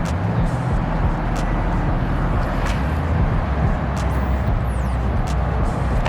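A vehicle engine running steadily at idle, with a few sharp clicks or knocks.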